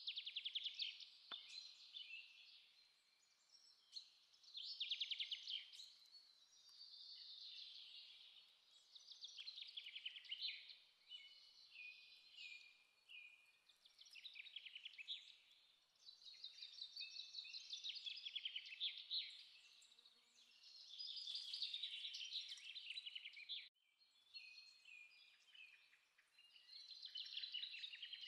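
Songbirds singing in phrases that come back every two to three seconds, made of fast trills and chirps with some falling notes.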